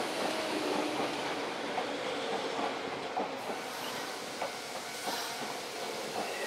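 Electric commuter train running through the station on the tracks: a steady rumble with scattered clicks from the wheels over rail joints and faint steady tones.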